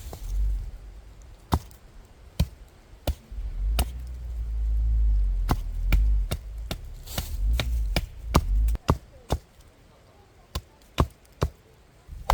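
Firewood being chopped or split: about twenty sharp wooden strikes at an irregular pace, some coming in quick clusters. A low rumble runs under the middle of it.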